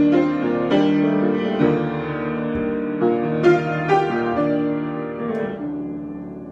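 Solo piano improvising: chords and single notes struck at irregular moments, held and ringing on, then dying away near the end.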